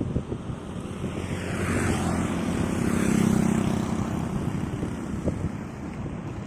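A heavy road vehicle passing close by: engine drone and tyre rush swell to their loudest about three seconds in, then fade away.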